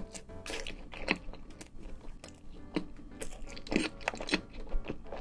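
Close-miked chewing of a cheeseburger dipped in melted cheese sauce, heard as a string of irregular short mouth sounds.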